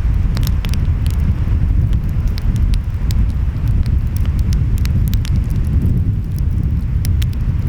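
Wood fire crackling, with irregular sharp pops and snaps scattered through, over a loud, steady deep rumble of surf and wind.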